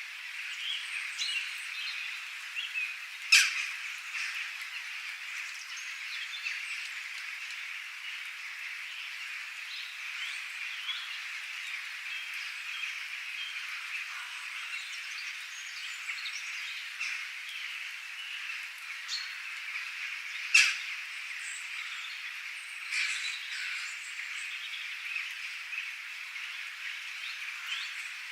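A dense, continuous chorus of frogs with scattered bird chirps over it. Two brief, louder sharp calls stand out, about three seconds in and again about twenty seconds in.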